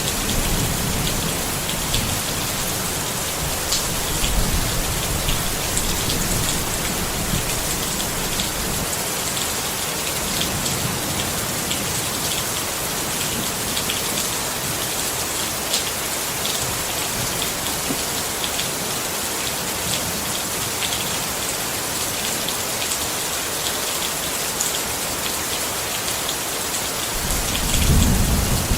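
Steady rain pattering on a tent, with individual drops ticking sharply through the hiss. A low rumble of thunder swells near the end.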